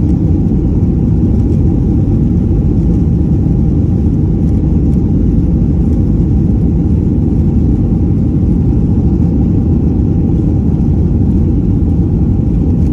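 Jet airliner's engines at takeoff power: a loud, steady rumble with a faint hum held at one pitch above it.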